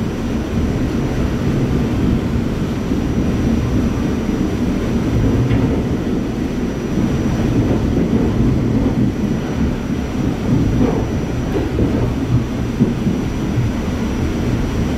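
R44 subway train running along the track, a steady low rumble of wheels on rails and the car in motion.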